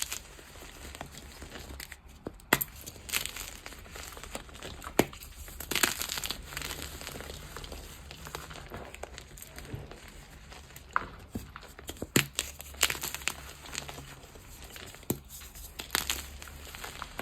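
Gym chalk being crushed and crumbled: irregular crunchy crackles with a few sharper snaps.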